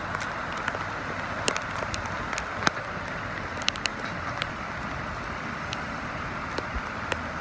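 Steady rain falling on a flooded street and on the water's surface, with scattered sharp ticks of drops striking close to the microphone. A vehicle wades through the floodwater in the first seconds.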